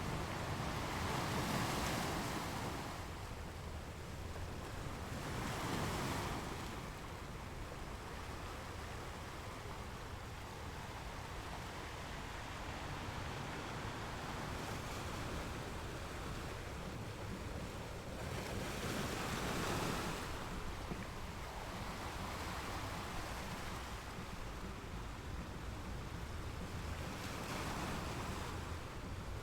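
Sea waves breaking and washing on the shore, a steady surf noise that swells with a louder wave at irregular intervals, about four times.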